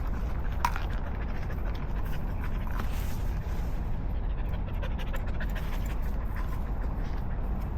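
A dog panting steadily, with a few faint small clicks over it.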